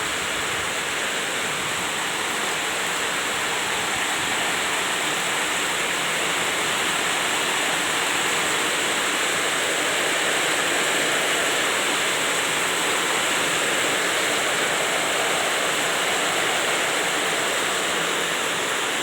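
Heavy rain pouring steadily as a dense, even hiss, with no thunder claps.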